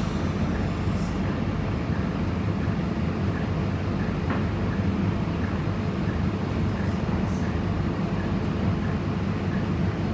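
Scania K230UB single-decker bus, its diesel engine running with a steady low rumble.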